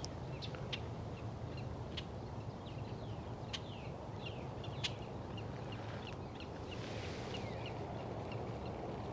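Birds chirping: many short, quick calls that slide downward in pitch, scattered irregularly, over a steady low outdoor rumble.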